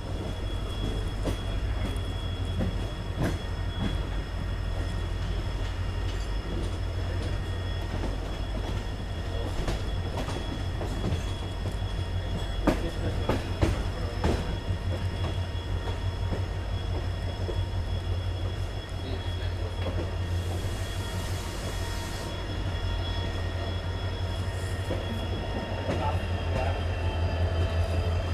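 Passenger train running, heard from inside a coach: a steady low rumble with wheel clicks over rail joints, over a steady high-pitched hum from the EMD WDP4 diesel locomotive. A brief hiss comes about two-thirds of the way in.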